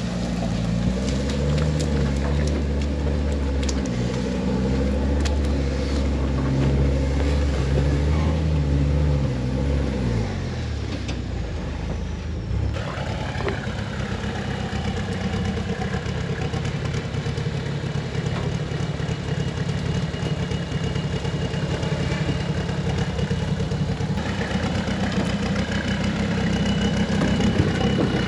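Off-road truck engine working on a rock-crawling trail, revving up and down for about the first ten seconds. After a short break it gives way to a steadier engine drone with a thin high whine over it.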